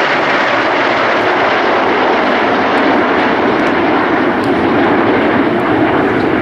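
Jet engines of PZL TS-11 Iskra jet trainers flying past in formation: a loud, steady rush of jet noise.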